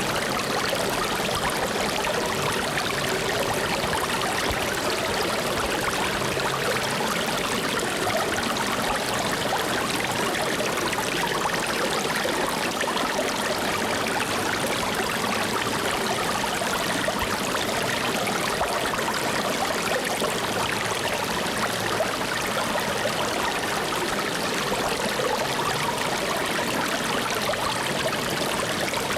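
Flowing stream water, a steady even rush without distinct splashes or drips.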